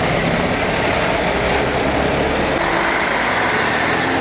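Heavy trucks driving past in a parade, diesel engines running with a steady low rumble. A thin, high steady whine starts about two and a half seconds in and stops near the end.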